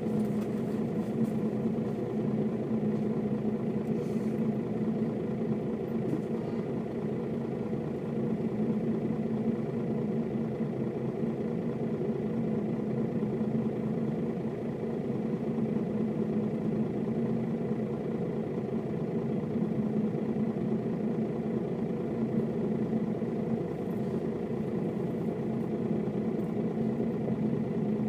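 Mercedes-Benz O407 bus's six-cylinder diesel engine running steadily at an even pitch.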